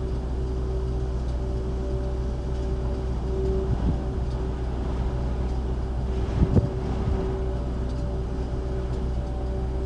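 Steady low rumble of a vehicle with a constant hum, broken by a short knock about four seconds in and a pair of louder knocks about six and a half seconds in.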